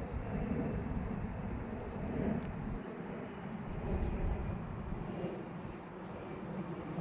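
Steady low outdoor rumble with a light hiss, swelling and easing gently.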